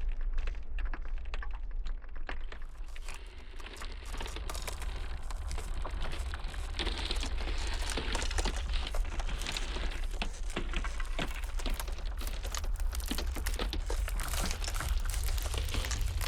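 Cracking ice: dense, irregular crackling and snapping, over a steady low rumble of blizzard wind.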